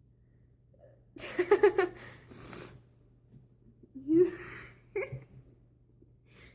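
A person laughing in a short run of quick bursts, then a breath; two brief voiced sounds follow a couple of seconds later.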